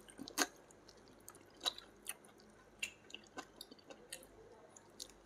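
A person chewing and sucking the meat off a piece of steamed chicken held to the lips: short, scattered wet smacks and clicks of the mouth, several per second at most.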